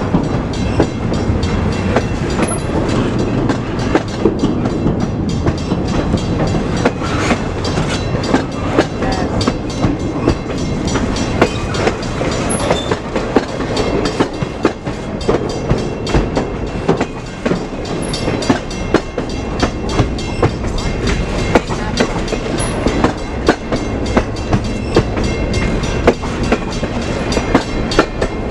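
Freight train cars rolling past close by, a steady rumble with frequent sharp clicks as the wheels cross rail joints.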